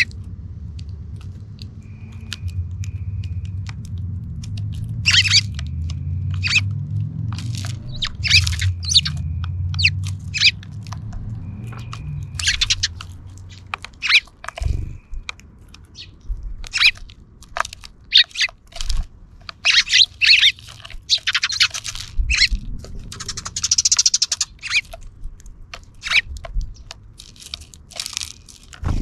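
Sparrows chirping, many short high chirps and quick runs of chirps throughout. Underneath, a low rumble fades out about halfway through, and there is a single dull thud near the middle.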